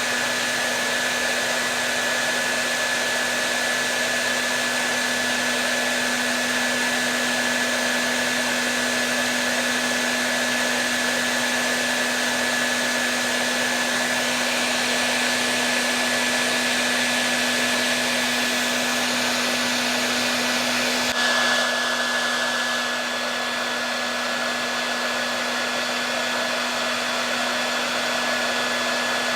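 Hair dryer blowing continuously, a steady rush of air with a low motor hum and a thin high whine, played as white noise to calm a baby. About two-thirds of the way through there is a brief small bump, after which the hiss is slightly softer.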